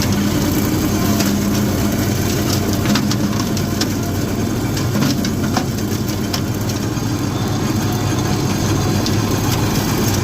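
Allis-Chalmers compact garden tractor engine running steadily with its brush hog mower engaged, with scattered sharp snaps and clicks through the mowing noise.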